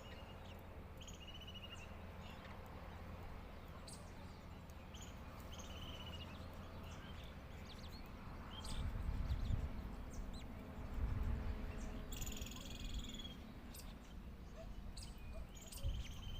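Outdoor ambience with scattered short bird chirps and calls, one longer buzzy call sliding down in pitch about twelve seconds in, and faint insect-like trills. A low rumble swells twice, about nine and eleven seconds in.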